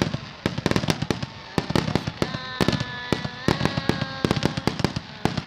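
Fireworks going off in rapid succession: many sharp bangs and crackles, several a second, with a held pitched tone sounding for about two seconds in the middle.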